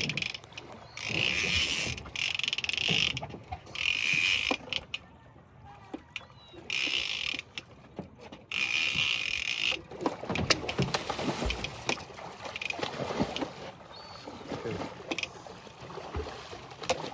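Fishing reel clicking in repeated bursts of about a second, with short gaps, as line is worked on a hooked shark. About ten seconds in this gives way to softer scattered knocks and water sounds around the boat.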